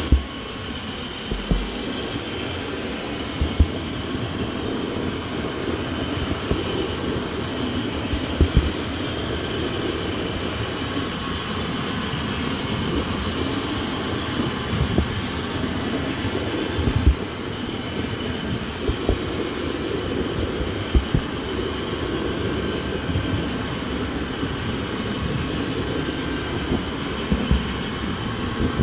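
A train running, with a steady low rumble and irregular short knocks every second or two, and a faint steady high tone above it.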